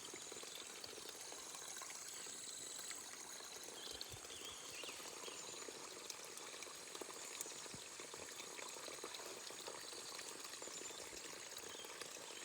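Spring water trickling steadily, with a few faint high chirps over it.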